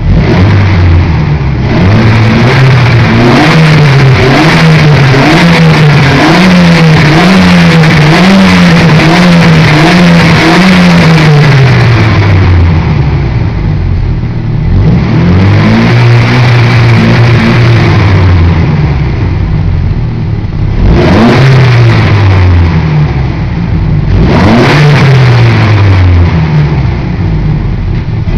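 Volkswagen Logus 1996 four-cylinder engine, running with the front exhaust resonator box removed, revved hard in rapid repeated throttle blips for the first ten seconds or so. After that come a few separate revs that rise and fall back toward idle. It is heard from inside the cabin and is very loud.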